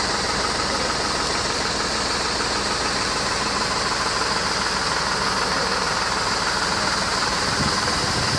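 Tractor engine running steadily at a constant speed, driving the PTO-powered triplex piston pump of a tractor-mounted crop sprayer.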